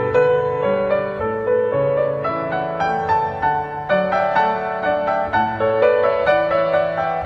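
Background music: calm piano playing a flowing melody over sustained bass notes.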